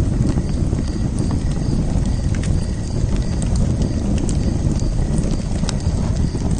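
Wood fire crackling: scattered sharp pops and snaps over a steady low rumble of burning.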